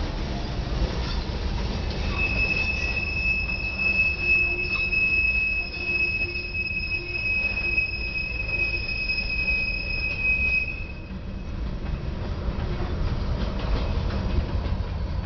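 Freight train cars rolling past with a steady low rumble of wheels on rail. A single steady high-pitched wheel squeal starts about two seconds in and stops about eleven seconds in.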